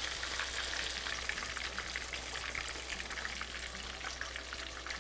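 Chicken frying in hot oil in a pan: a steady sizzle with dense, fine crackling.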